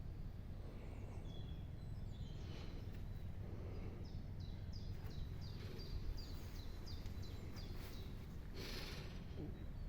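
A small bird singing a run of short, high notes, each falling in pitch, about two a second, over a steady low rumble.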